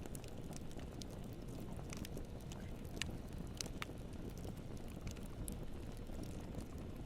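Campfire burning: a steady low rumble with scattered sharp crackles and pops from the burning wood, a few louder pops around the middle.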